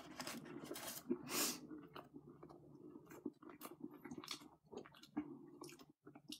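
Close-mouthed chewing of a crispy chicken nugget: soft, irregular crunches and wet mouth sounds, strongest in the first second and a half, then fainter.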